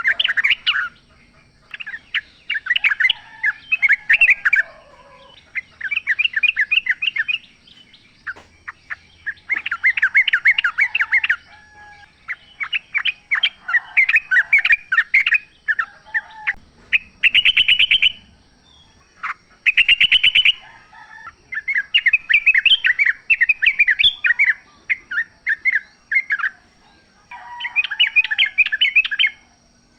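Yellow-vented bulbuls singing: bubbly, chattering song phrases a second or two long, one after another with short gaps, and two fast rattling trills near the middle.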